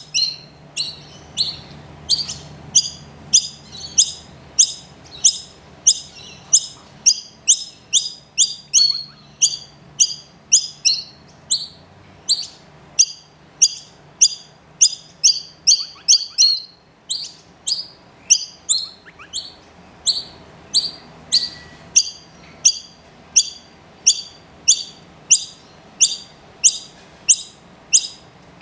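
A hungry chick's begging calls: short, high chirps that drop sharply in pitch, repeated steadily at about three every two seconds.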